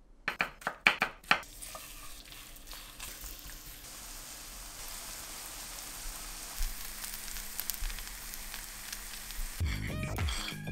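Zucchini, onion and egg pancake batter sizzling steadily in hot oil in a frying pan, after a few sharp knocks at the very start. Music comes in near the end.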